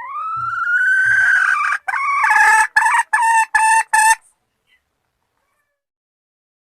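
Junglefowl hen call, which the uploader presents as a female soliciting mating: one long rising note, then five short rapid notes, stopping about four seconds in.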